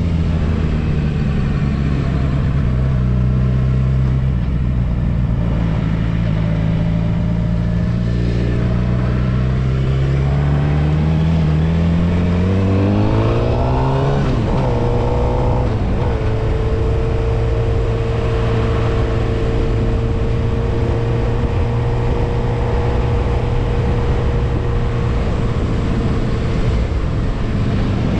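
Suzuki GSX-R750's inline-four engine under way at low revs. The revs climb steadily for several seconds, drop sharply about halfway through, then hold a steady cruise.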